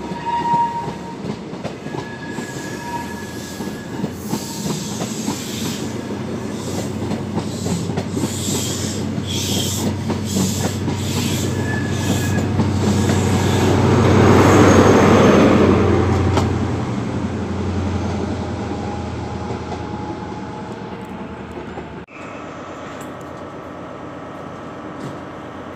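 CrossCountry Voyager diesel multiple unit running past the platform: its underfloor diesel engines and wheels make a rumble with clicks over the rail joints and thin wheel squeals. The sound builds to its loudest about halfway through and then fades. A little after 22 seconds it cuts abruptly to a quieter, steady rumble.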